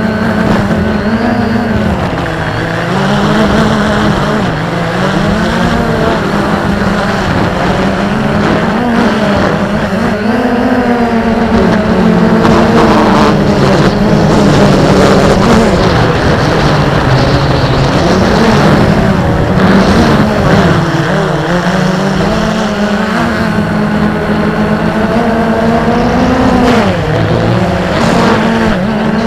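XK Detect X380 quadcopter's motors and propellers running with a steady buzz, the pitch rising and falling every few seconds as the drone speeds up its motors to hold against strong wind, over rough wind noise.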